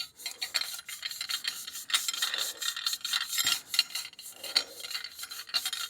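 A stainless steel exhaust muffler being rubbed by hand with a pad and BRASSO polish: quick, irregular scratchy strokes.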